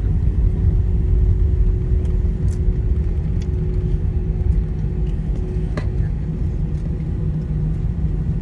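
Airliner cabin noise heard from inside the plane: a steady low rumble with a steady hum over it. A single short click about six seconds in.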